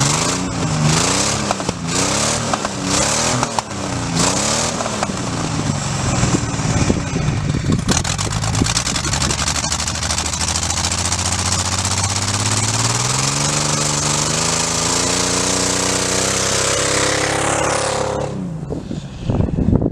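Ford Falcon's 4-litre inline-six engine revved hard in a series of quick blips. It then runs at high revs through several seconds of loud hiss, and climbs slowly and steadily in pitch before cutting off near the end.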